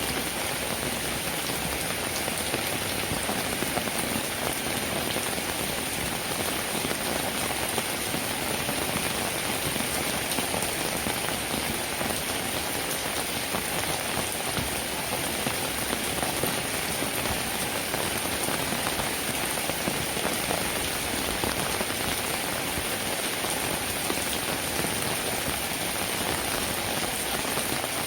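Steady rain falling, an even wash of drops that holds at the same level throughout without letting up.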